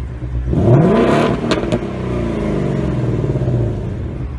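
2018 Ford Mustang GT's 5.0-litre V8 idling, revved once about half a second in: the revs shoot up and fall back to idle over a couple of seconds, with two sharp cracks as they drop, then idling again.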